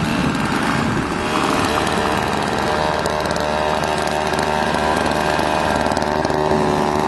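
Gasoline snowblower engine running steadily at working speed.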